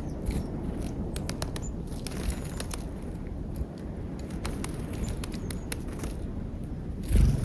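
Birds pecking at peanuts: an irregular scatter of sharp clicks and taps, with a couple of faint high chirps, over a steady low rumble. A louder low thump comes just before the end.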